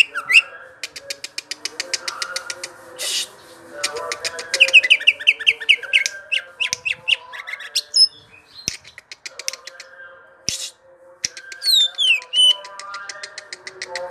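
Cucak ijo (leafbird) singing a long, continuous rolling song: fast runs of clipped chips mixed with quick slurred whistles and trills, with hardly a break.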